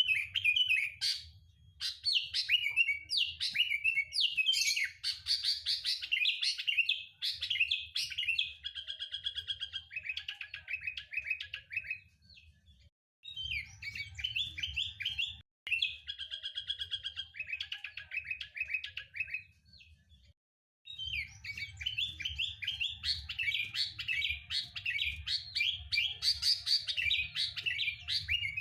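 Sooty-headed bulbul (kutilang) singing in lively runs of quick, chattering chirps, over a low hum. The song breaks off briefly twice, about twelve and twenty seconds in.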